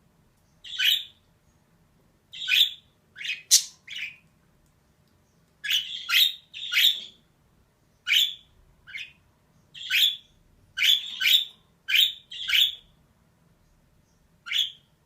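Female budgerigar calling: short, sharp chirps in irregular bunches of two or three with pauses between, about sixteen in all.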